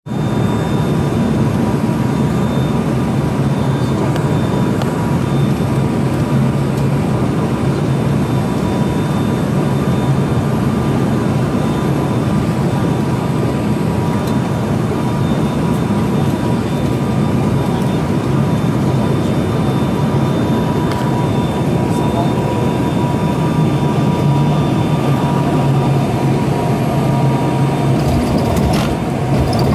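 Airliner cabin noise: the engines and rushing air make a steady noise with a faint whine on two pitches, and a few clicks or knocks near the end.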